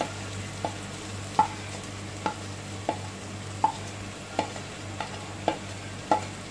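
Sliced onions frying in hot oil and ghee in an aluminium pot with a steady sizzle. A slotted spoon knocks lightly about every three-quarters of a second as ginger-garlic paste is scraped in and stirred.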